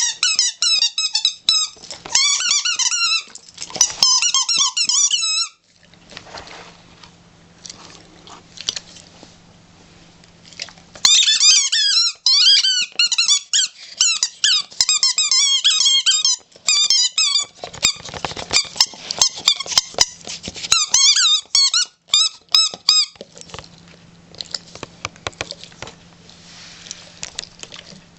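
A dog chewing a rubber squeaky ball, which squeaks in rapid runs of quick, high squeaks lasting several seconds each. Between the runs come quieter gnawing and clicking sounds.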